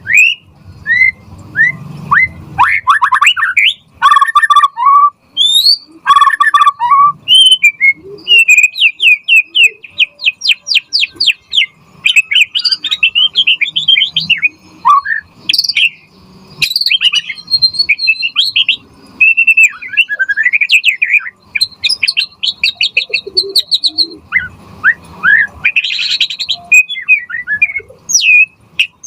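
White-rumped shama (murai batu) singing a loud, continuous and varied song: clear whistles, sweeping notes and fast runs of repeated notes, phrase after phrase.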